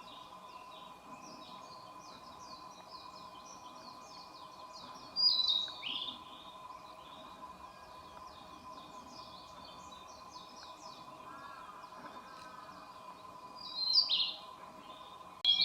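Wild songbirds singing in woodland: a constant chatter of short high chirps, with two louder, falling song phrases about five and fourteen seconds in. A faint steady tone runs underneath.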